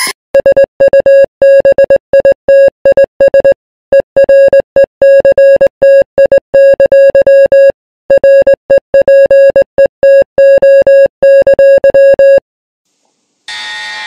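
Fan-made Emergency Alert System alarm: a loud, buzzy single-pitched electronic tone keyed on and off in short and long beeps, in three runs separated by brief pauses. It stops about a second and a half before the end, and a different chord-like alert tone starts just before the close.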